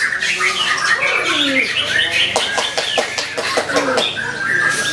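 White-rumped shama singing a fast, varied song of chattering and harsh notes, with a quick rattle in the middle and a long held whistle near the end.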